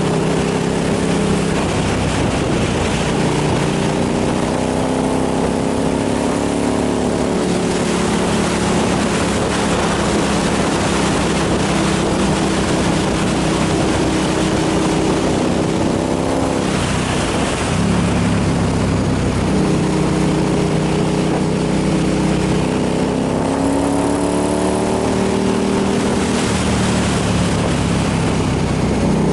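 Motorcycle engine running under way with loud wind rush over the microphone. The engine pitch climbs and falls as the throttle and gears change, and there is a brief drop in pitch a little past halfway before it climbs again.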